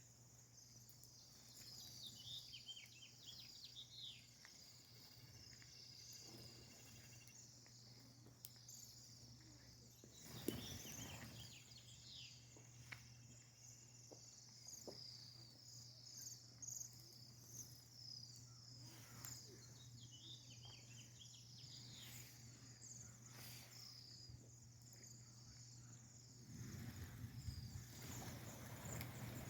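Faint, continuous chatter of a flock of small birds in a tree: many overlapping high chirps, with a few quick falling trills a few seconds in and again about twenty seconds in.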